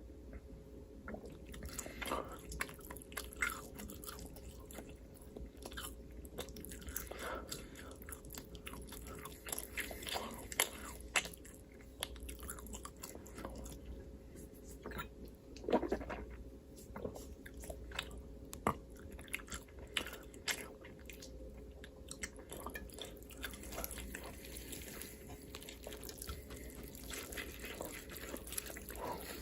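Close-miked chewing and biting: irregular mouth clicks and crunches, one louder about halfway through.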